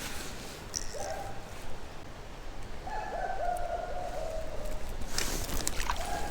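Creek water running steadily under a bird's drawn-out pitched calls, about a second in and again from about three to four and a half seconds. A brief splashy burst comes about five seconds in.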